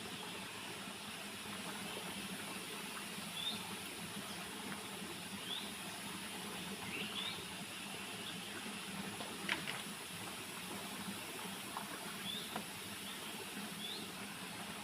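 Steady rush of flowing stream water, with short high rising chirps every couple of seconds and one sharp click about nine and a half seconds in.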